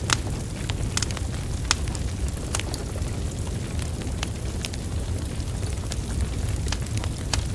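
Wood fire burning, with irregular sharp crackles and pops from the logs over a steady low rumble of flames.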